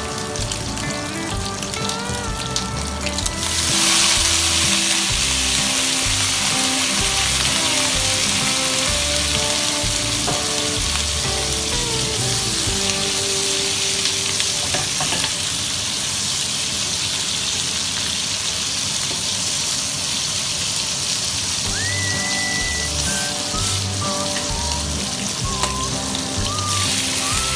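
Pork ribs sizzling in a hot wok, rising suddenly to a loud hiss about three seconds in as cooking wine hits the pan, then settling to a steady sizzle. Background music plays throughout.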